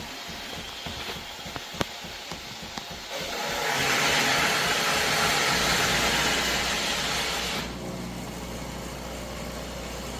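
Philips Series 2300 automatic espresso machine running. About three seconds in, a loud steam hiss starts, lasts roughly four and a half seconds and then drops away, and a low hum from the machine joins partway through it.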